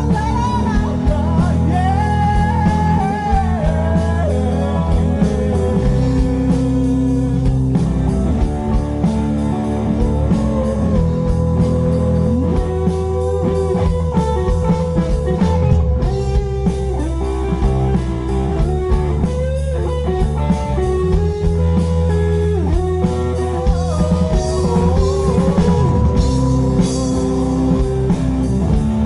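Live rock band playing, with guitar to the fore over bass and drums; its melody line bends up and down in pitch.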